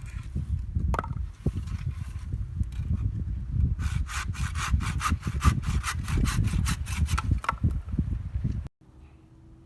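Hand saw cutting through dry dead wood, with quick, even back-and-forth strokes in the middle stretch; the sawing stops suddenly near the end.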